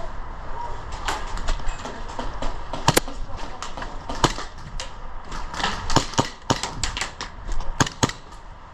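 Airsoft gunfire and BB impacts during a CQB game: sharp snaps at irregular intervals, the loudest about three seconds in.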